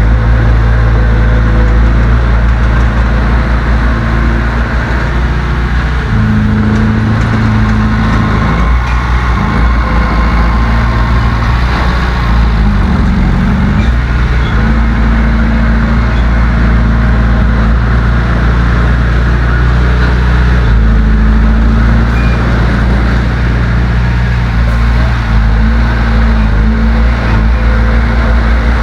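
Heavy diesel engine of an earthmoving machine running under load. Its engine speed changes several times: it steps up about six seconds in, dips and recovers briefly around halfway, and rises again about two-thirds of the way through.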